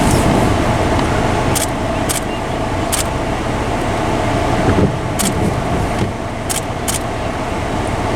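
A car driving, a steady engine and road noise, with scattered sharp ticks or rattles coming at irregular intervals.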